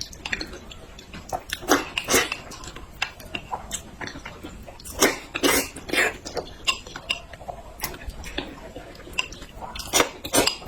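Close-miked eating: chewing, biting and wet mouth sounds, coming in irregular loud bursts.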